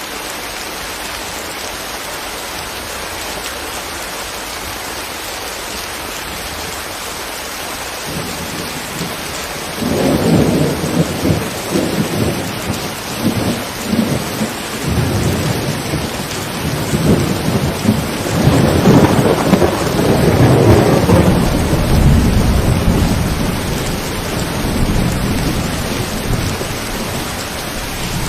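Steady rain falling, then about ten seconds in a long, loud rumble of thunder breaks in suddenly and rolls on in waves, loudest a little past the middle, with the rain continuing underneath.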